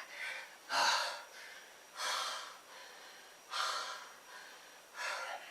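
A man breathing hard, with four heavy, noisy breaths about a second and a half apart, the first the loudest. He is catching his breath after a set of push-ups.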